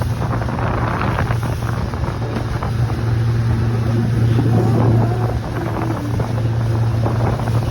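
Small boat's outboard motor running at a steady speed with a constant low hum, under wind rushing on the microphone.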